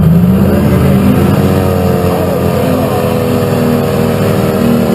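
Big Hemi engine of a two-wheel-drive pulling tractor running hard under load, its pitch climbing over the first second or two and then holding high and steady.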